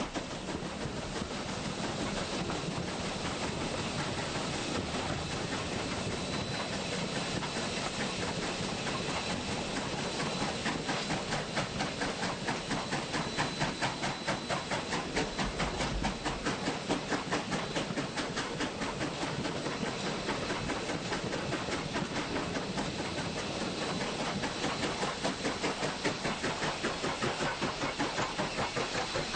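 A train running past, its wheels clicking over the rail joints in a quick, even rhythm over a steady rushing hiss.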